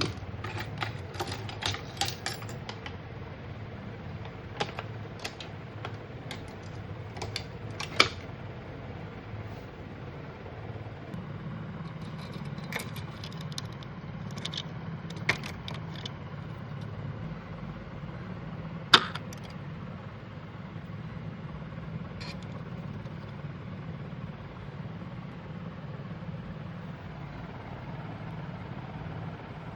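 Scattered sharp clicks and knocks of small hard objects being handled, loudest about 8 and 19 seconds in, over a steady low hum.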